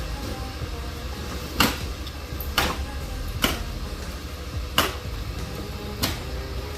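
Five sharp knocks at uneven intervals of about a second, over a steady low rumble.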